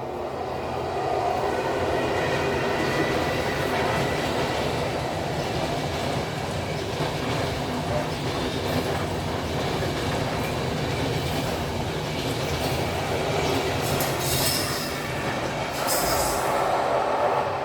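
A train running along the track, a steady loud rumble and rattle of wheels on rails, with two brief high-pitched bursts near the end.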